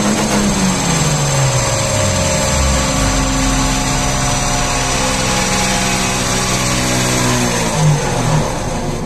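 Renault Twingo 1.2 75 hp engine converted to run on E85 ethanol, heard through its exhaust. The revs fall away to a steady idle over the first few seconds, then two short throttle blips come near the end.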